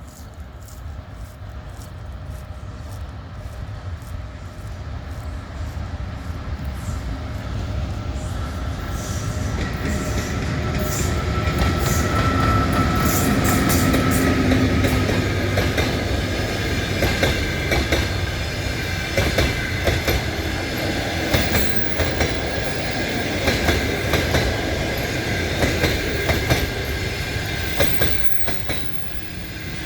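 EP1M electric locomotive drawing in with a passenger train, its running sound growing to a peak about halfway with a steady hum. The carriages then roll past, wheels clicking rhythmically over the rail joints.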